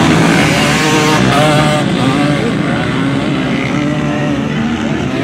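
Several off-road motorcycle engines revving and running, their pitch rising and falling as the bikes race.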